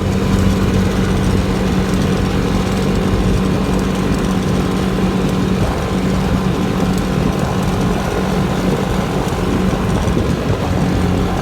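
Pit bike's small single-cylinder engine running at steady revs, an unbroken engine drone with a constant pitch.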